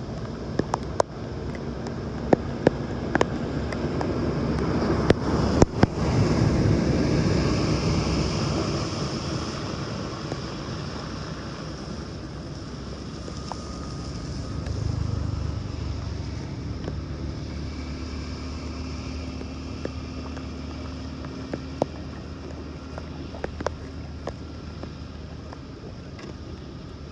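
Floodwater rushing through a cleared drain or dam opening, a steady rush that swells about six seconds in and then eases off. Scattered sharp knocks sound over it.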